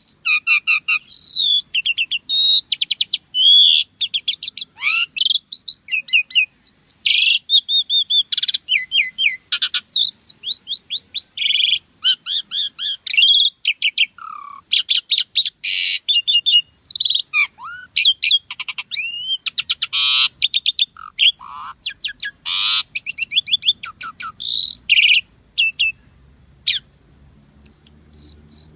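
Jalak suren (pied starling) singing non-stop. It is a fast, varied run of whistles, chirps, slurred glides and rattling notes: the full 'gacor' song rich in learned phrases.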